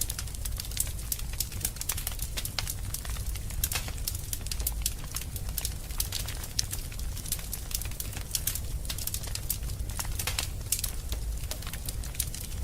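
Wood fire burning in a fireplace: frequent sharp crackles and pops at irregular intervals over a steady low rumble.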